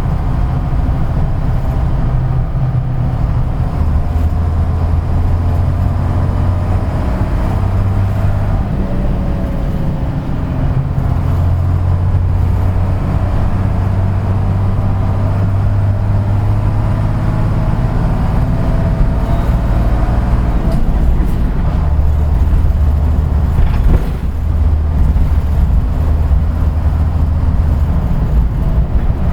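Route bus diesel engine running under way, heard on board. Its low drone shifts in pitch several times over a constant road-noise rumble. One brief knock sounds about three-quarters of the way through.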